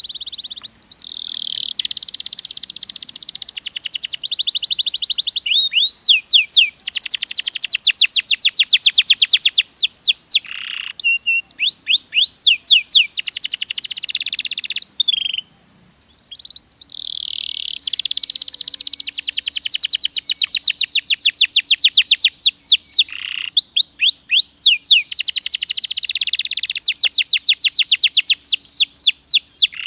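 Domestic canary singing: long, high-pitched trills of rapidly repeated notes, one running into the next, with a break of about a second just past halfway before the song resumes.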